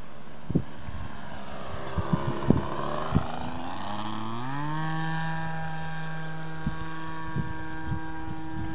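Radio-controlled model aircraft engine running; its pitch rises about four seconds in and then holds steady, with a few short knocks.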